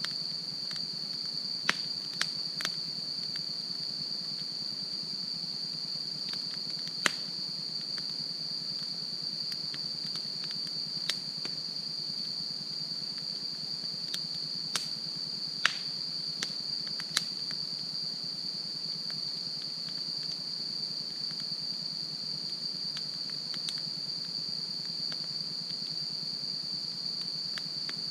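Wood campfire crackling, with a scattering of sharp pops and snaps at irregular intervals, over a steady high-pitched insect trill.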